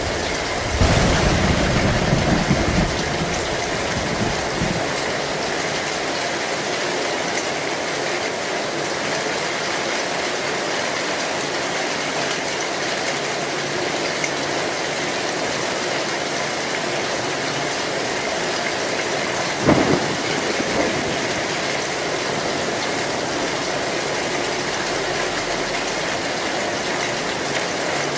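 Heavy rain drumming steadily on an old corrugated zinc (metal) roof. A low rumble of thunder swells about a second in and lasts about two seconds, and a sharp thunderclap comes about twenty seconds in.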